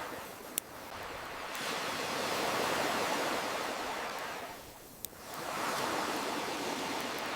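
Ocean waves washing in and drawing back: the surf noise swells, fades away about four to five seconds in, then builds again. Two sharp pops from a crackling wood campfire come under a second in and again about five seconds in.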